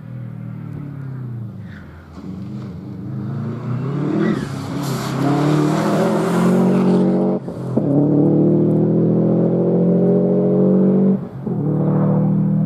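Four-wheel-drive rally car engine running hard under acceleration. The engine note climbs and then holds loud, cut off sharply for a moment twice, about seven and eleven seconds in.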